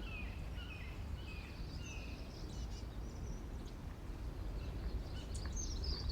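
Wild birds calling: a run of short, falling chirps about twice a second, fading after two seconds or so, then busier, higher twittering near the end, over a low steady outdoor rumble.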